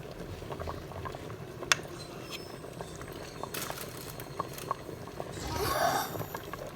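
Pot of rice porridge bubbling on the stove, with many small irregular pops and plops over a steady hiss. About five and a half seconds in, a brief louder rush of noise rises over it.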